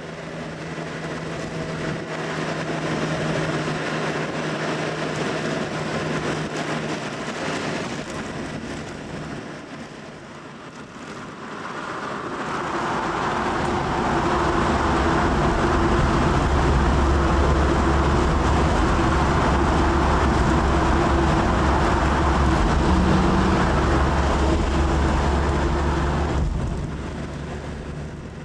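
Classic car driving at road speed, engine and tyre noise steady. About twelve seconds in the sound swells into a loud, dense rumble as the car enters a road tunnel and the noise echoes off its walls, then falls away shortly before the end as it comes out.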